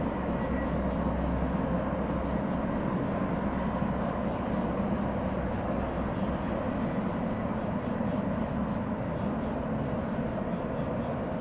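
Steady rumble of a distant train, with no horn sounding.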